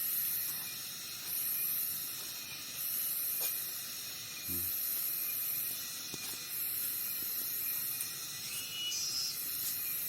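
Cicadas singing: a very high, hissing buzz that swells in bursts of about a second with short breaks, repeating, over a steady background of insect noise. A few faint knocks sound now and then.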